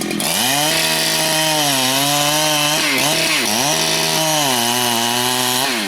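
Large Husqvarna two-stroke chainsaw opened up to full throttle and cutting into rain tree wood, its engine pitch sagging twice under load in the middle of the cut and recovering, then falling back as the throttle is released near the end.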